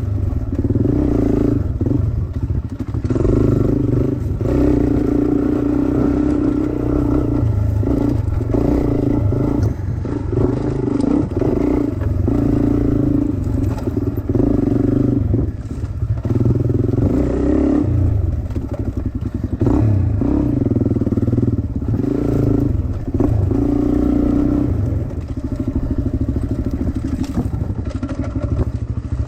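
Dirt bike engine being ridden hard, the revs rising under throttle and dropping off again every second or two.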